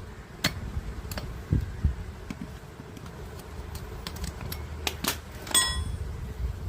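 Scattered clicks and knocks of hard objects being handled, with low thumps. About five and a half seconds in comes one ringing metallic clink.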